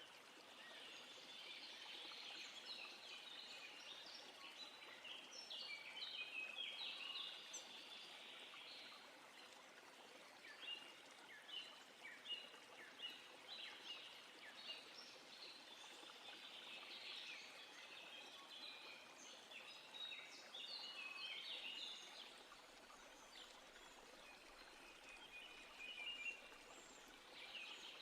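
Faint birdsong: several birds singing in a dense chorus of short chirps and trills, over a soft steady hiss.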